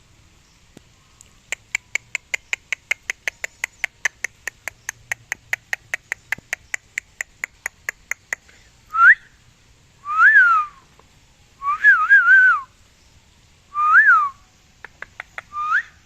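Pet ringneck parakeet making a fast run of short, sharp chirps, about five a second for several seconds. It then gives a series of separate rising-and-falling whistles.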